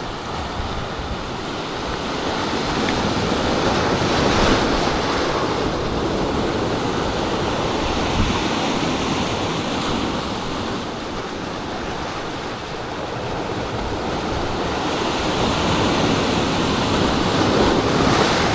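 Sea surf washing onto the shore, swelling about four seconds in and again near the end, with wind buffeting the microphone.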